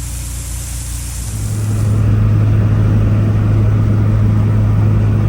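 Honda Civic's engine and road noise heard inside the moving car, a steady drone that gets louder about a second and a half in as the car picks up speed, then holds.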